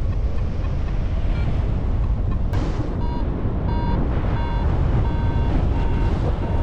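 Strong wind buffeting the microphone in flight, with a flight variometer beeping in short, evenly spaced pips, about two a second from about three seconds in: the beeping a vario gives while climbing in rising air. A single sharp click sounds about two and a half seconds in.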